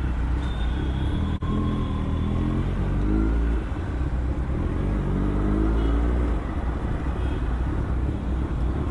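Motorcycle engine running while riding, rising in pitch as it accelerates twice, over a steady low rumble.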